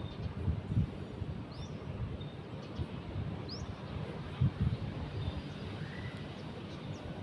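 Outdoor ambience: a bird's short rising chirp repeats every couple of seconds over a low, uneven rumble, with one stronger thump about halfway through.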